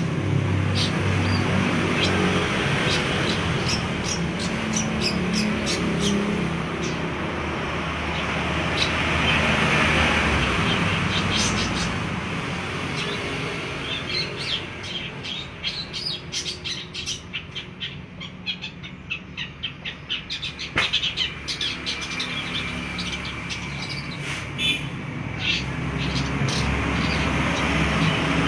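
Long-tailed shrike calling and chattering in runs of short, sharp notes that come thickest in the middle stretch, over a steady background rumble.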